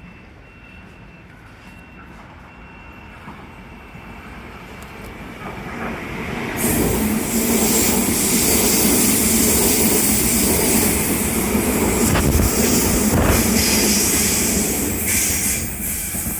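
A train passing through the station without stopping. Its noise builds over the first six seconds, runs loud for about eight seconds as it goes by, then starts to fade near the end.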